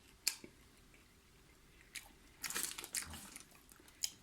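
A person chewing French fries close to the microphone: a sharp click near the start, then a run of crunchy chewing noises from about two and a half seconds in.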